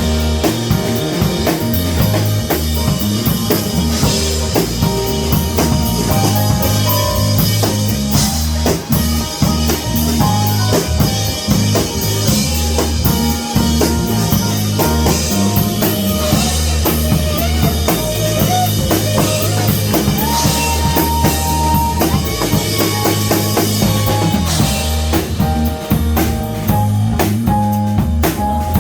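Live jazz-funk band playing: a steady drum-kit groove with bass drum and snare, a bass line, and held melody notes above.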